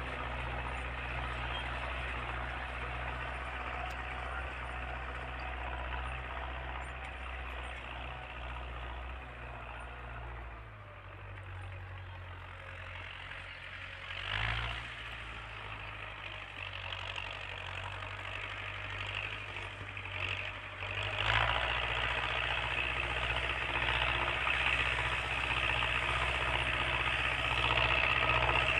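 Tractor engine running steadily. Its sound thins out about a third of the way through, with a short louder burst soon after, then comes back fuller and louder for the last third.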